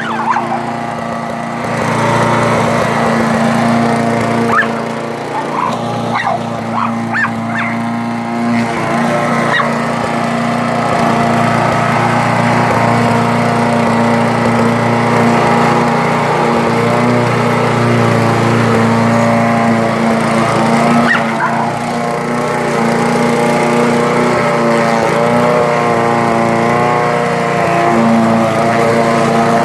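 Gasoline lawn mower engine running steadily, with a pit bull barking and yelping at it during the first several seconds.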